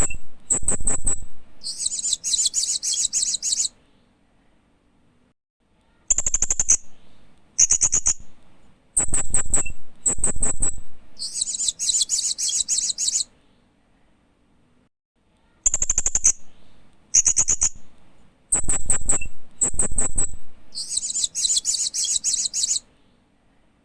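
Hanging parrot (Loriculus) calling: a run of sharp, high chirps followed by a buzzy, chattering trill lasting about two seconds. The phrase comes three times, with short pauses between.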